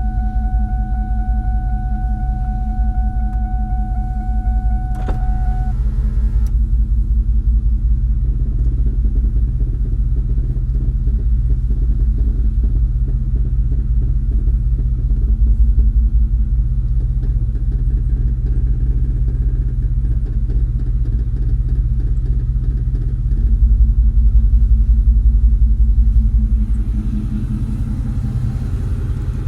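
2002 Ford Mustang GT's 4.6-litre V8 idling, with a creaking from the front end while the brake pedal is held and the steering is turned to full lock. A steady high tone sounds for the first five seconds or so and stops around a sharp click. The idle swells for a few seconds near the end.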